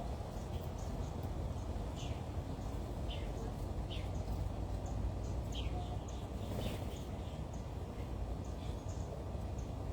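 Birds chirping: short, separate chirps come every second or so over a steady low background rumble.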